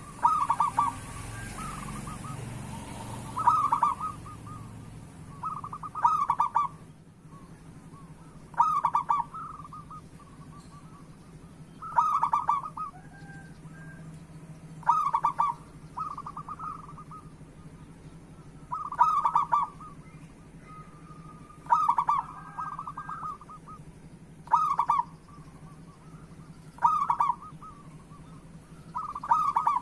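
Zebra dove (perkutut) cooing: short phrases of quick stuttering coos, repeated about every three seconds, some ten phrases in a row.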